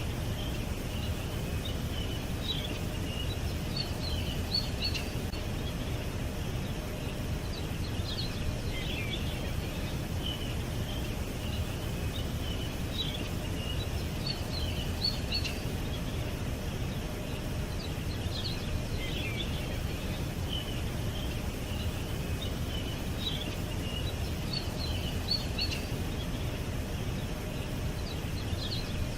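Songbirds chirping in short clusters of high notes every few seconds, over a steady low rumble of background noise.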